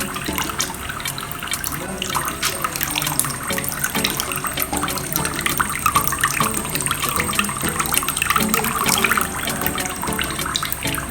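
Water pouring from holes in a plastic bottle and splashing into a basin below, kept flowing by a small DC motor pump: a steady trickling and splashing.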